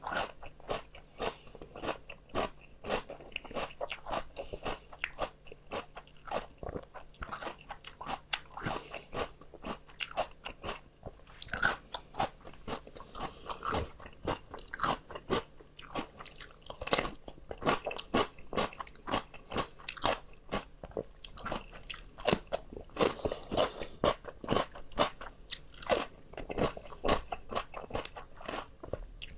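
Close-up chewing of crisp raw vegetables: a rapid, continuous run of sharp crunches, several a second, as the food is bitten and chewed.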